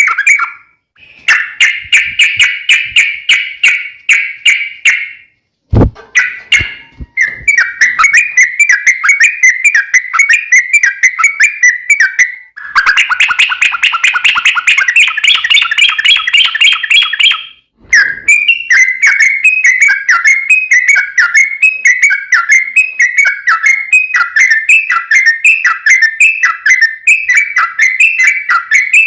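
Yellow-vented bulbul (trucukan) singing long runs of rapid, bubbly repeated notes in several phrases with short breaks, the last phrase running on the longest. A single brief knock sounds in the pause about six seconds in.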